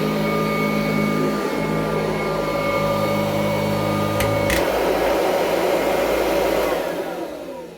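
Kirby Heritage 2 upright vacuum cleaner running steadily with its motor whine, with two sharp clicks about four seconds in. Near the end it is switched off and the motor winds down, falling in pitch as it coasts to a stop.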